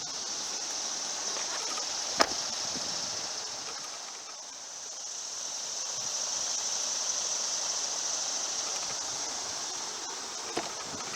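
A steady, high-pitched insect chorus that slowly swells and fades, with one sharp click about two seconds in.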